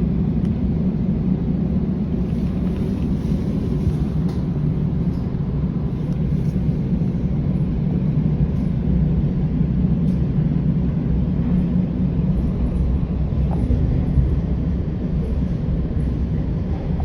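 A moving train's steady low rumble, with no change in pace.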